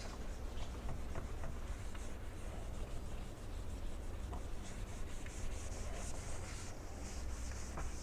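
A cloth rubbing over a motorcycle's waxed paintwork, buffing off the dried wax haze in repeated swishing strokes. The strokes come more often in the second half.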